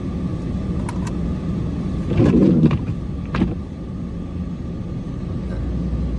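Cummins diesel truck engine running steadily, with a brief louder surge about two seconds in and a sharp knock a second later.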